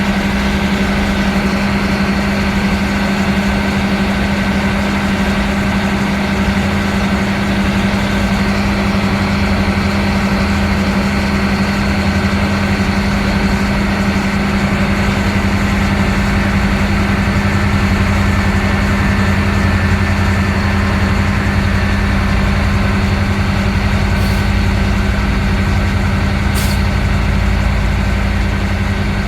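Steady machinery hum inside a passenger train carriage, with a constant low drone that never changes. Two faint clicks come near the end.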